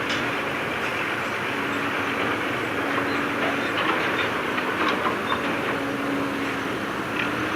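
Heavy earthmoving machinery at work: a diesel engine running steadily under scattered metallic clanks and squeaks.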